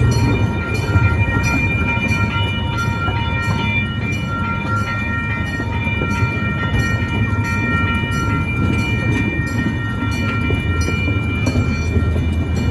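Miniature zoo train rolling along, heard from aboard: a steady low rumble of the cars and wheels, with a high-pitched ringing tone layered over it.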